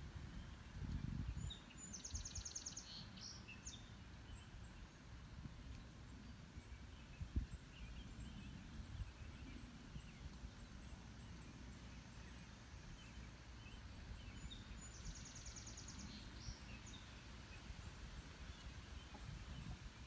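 A songbird singing twice, each song a high note followed by a fast, high trill of about a second and a half, with a few faint chirps between. A steady low rumble runs underneath, and a brief thump comes about seven seconds in.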